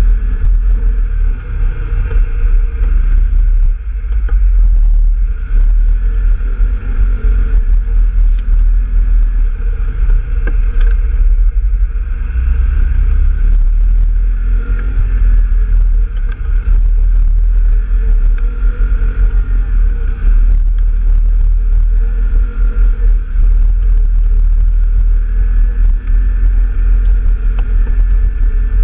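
Off-road vehicle engine running as it rides along a trail, its pitch rising and falling with the throttle, under heavy wind rumble on the microphone.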